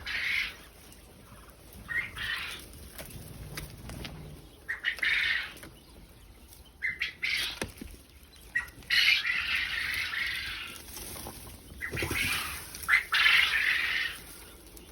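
Quail in their pen, with repeated bursts of wing-flapping and rustling. The longest and loudest come in the second half, each lasting about two seconds.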